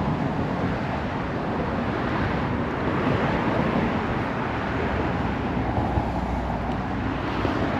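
Car driving, with steady road and tyre noise heard from inside the cabin.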